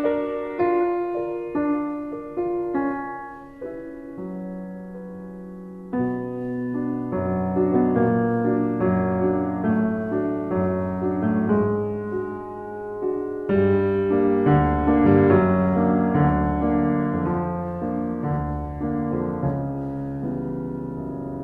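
Background piano music: a slow melody over chords, thinning out about four seconds in and growing fuller again from about six seconds.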